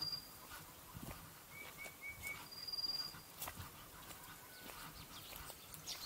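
Wild birds calling: a thin, high, even whistle heard twice, about three seconds apart, with a quick run of four short lower notes between them. Faint scattered knocks and clicks.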